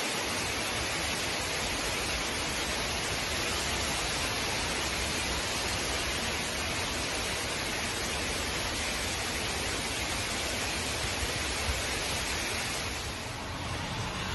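Heavy rain pouring down steadily: a dense, even hiss of rain on trees, grass and road. It eases slightly near the end.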